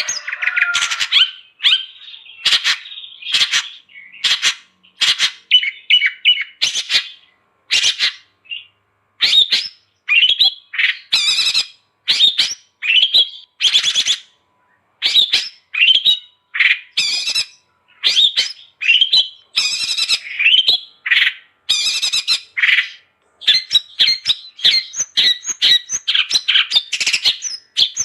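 Long-tailed shrike singing: a steady run of short, harsh, scratchy chattering phrases, with brief pauses between bursts.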